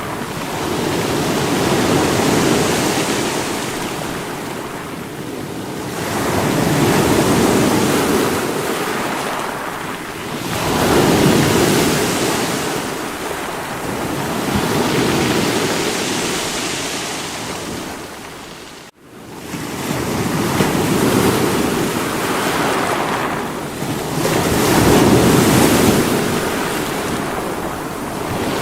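Sea waves breaking on rocks: surf swelling and washing back about every four to five seconds. The sound cuts out abruptly for a split second about two-thirds of the way through, then returns.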